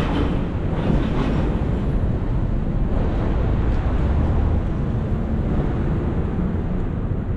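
Steady low rumble of a train running through the station.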